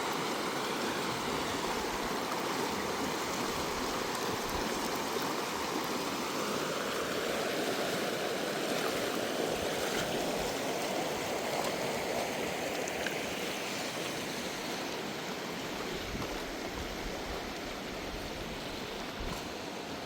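River water rushing steadily, a continuous wash with no break.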